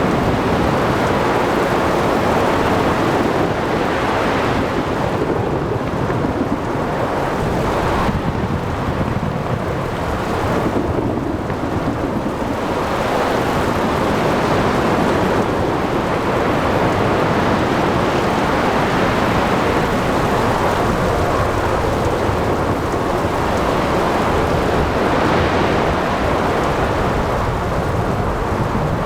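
Thunderstorm ambience: heavy rain with rumbling thunder, a dense steady rush of noise that swells and eases every few seconds.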